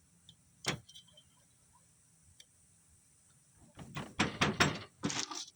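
Small metal hand tools and turbo parts clicking and clinking as they are handled during snap-ring fitting: one sharp click about a second in, then a quick run of taps and knocks near the end.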